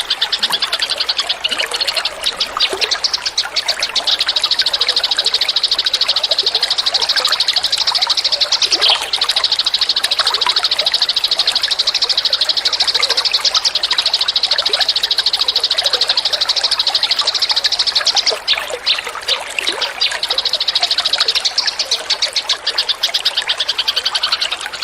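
A songbird's long, very fast, buzzing high-pitched trill, held for many seconds at a time, with a short break about nine seconds in and a looser, broken stretch around eighteen to twenty seconds in.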